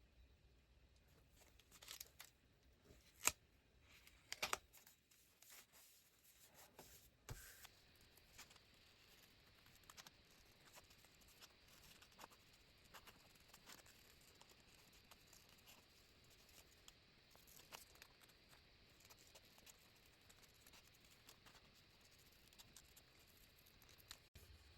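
Faint desk handling sounds of sticky tape being pulled, torn and pressed onto a paper diary page, with a few sharp clicks and tears in the first few seconds, then only light scattered ticks.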